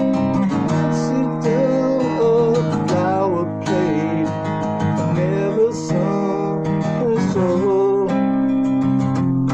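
A song: acoustic guitar strumming chords, with a wavering melody line carried over it throughout.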